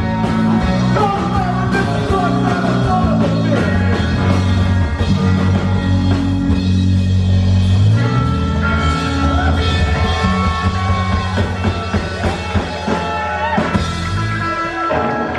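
Rock band playing live and loud: bass, drums with cymbals, and electric guitar with notes sliding up and down. In the last few seconds the playing breaks into separate hits.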